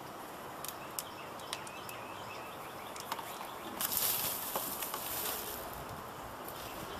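A few small clicks and knocks of computer parts being handled during disassembly, with a louder rustle about four seconds in, over steady outdoor background noise.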